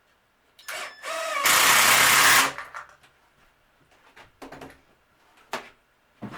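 A power tool runs loudly for about a second, then stops, followed by a few separate knocks and clicks of work on the piece.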